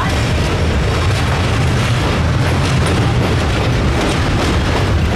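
Steady loud rumble and rushing noise of a passenger train under way, deep and even throughout with no separate beats standing out.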